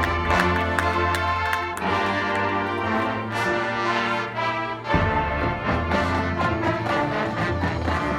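High school marching band playing: sustained brass chords over a heavy low bass line. The low end drops away for a couple of seconds in the middle, then comes back with a sharp hit about five seconds in.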